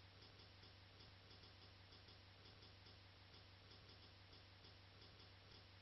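Near silence: faint, regular ticking over a low, steady hum.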